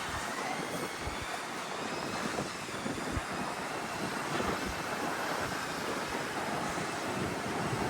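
Steady city street traffic noise, with wind buffeting the microphone in irregular low rumbles.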